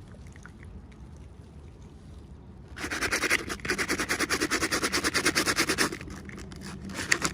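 Rapid scratching, quick even strokes several a second, starting about three seconds in, pausing near six seconds and starting again near the end.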